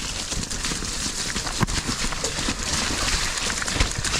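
Mountain bike riding down a wet, muddy woodland trail: tyres running through mud with the chain and frame rattling, and sharp knocks about one and a half seconds in and again near the end as the bike hits bumps.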